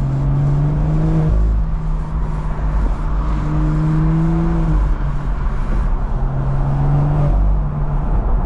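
BMW M340i's B58 turbocharged inline-six heard from the cabin over road noise, its note climbing and then dropping off three times as the car pulls and lets off.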